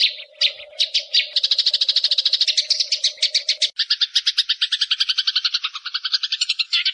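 Songbird giving a fast, unbroken chatter of short chirps, about ten a second, over a faint steady hum. About halfway through the chatter changes to a lower, fuller trill.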